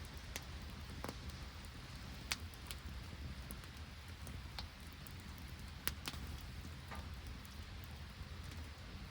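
Open wood campfire crackling, with scattered sharp pops and ticks, over a steady hiss of rain and sleet.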